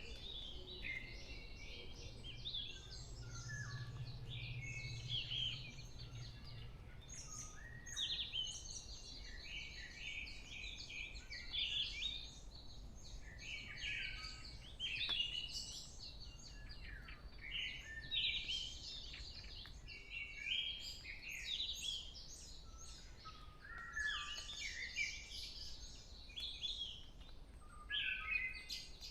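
Early-morning chorus of several forest songbirds: many overlapping chirps, whistles and trills from different birds, with no pause. A faint low hum sits under them for a few seconds near the start.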